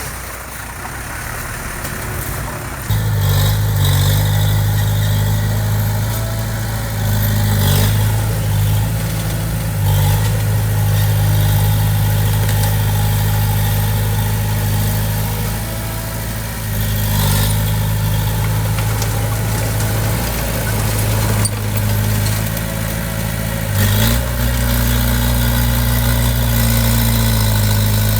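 Heavy-equipment diesel engine running. It gets much louder about three seconds in, then its speed steps up and down several times.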